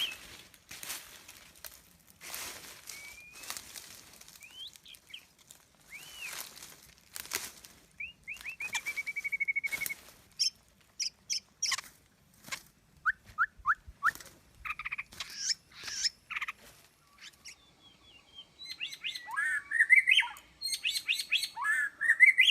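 White-rumped shama singing a varied song of short whistles and pitch glides, with harsh rasping notes. A rapid trill comes about eight seconds in, and a loud chattering phrase near the end.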